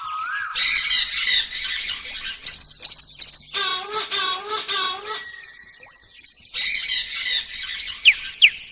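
Birds chirping and calling: a run of different chirps, trills and whistles that switch abruptly several times, with a few quick falling whistles near the end.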